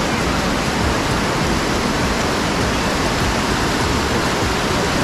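A waterfall's rushing water, loud and steady, close to the microphone.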